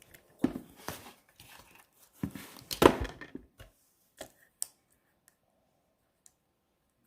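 Cutting plates for a small die-cutting machine being handled and set down on the base plate, with paper rustling: a run of knocks, clicks and rustles, the loudest about three seconds in.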